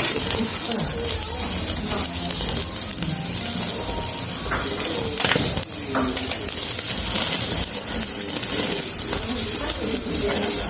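Hanwoo beef sirloin sizzling on a portable gas grill over direct flame, with a steady frying hiss. Indistinct voices underneath.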